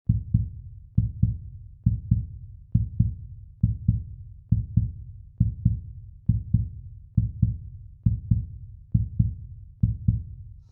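Heartbeat sound: a steady lub-dub of paired low thumps, a little faster than one pair a second, stopping suddenly at the end.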